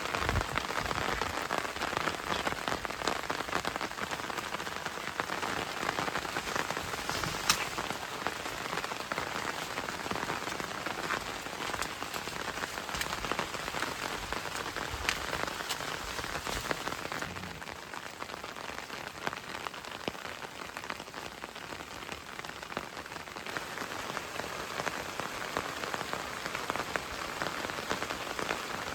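Steady rain falling, with many separate drops ticking on surfaces; one sharper drop stands out about seven seconds in, and the rain eases slightly a little past halfway.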